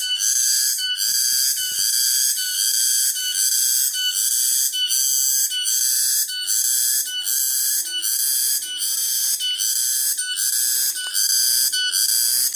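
Cicada calling: a loud, high buzz that pulses in an even rhythm, about every half second.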